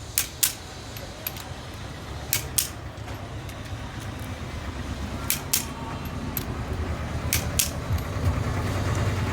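Click-type torque wrench tightening crankshaft bolts: sharp metallic clicks come in pairs four times, about every two to three seconds, over a steady low hum.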